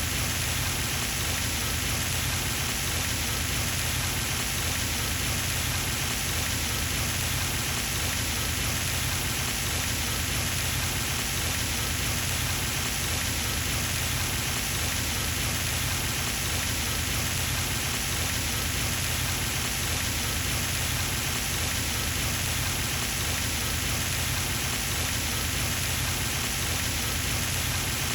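Pond fountain running, its water splashing down onto the pond in a steady, unbroken rush.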